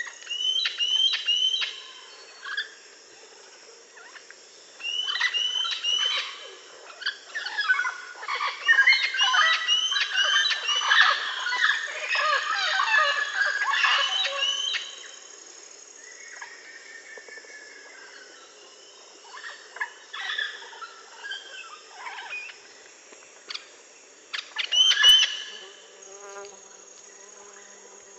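A flock of parrots calling in bursts of short repeated chirps and squawks, busiest about eight to fifteen seconds in, with another loud burst near the end. A steady high insect buzz runs underneath.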